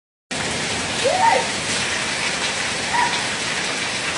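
Steady rain falling, cutting in abruptly just after the start. Two short chirps sound over it, about a second in and about three seconds in.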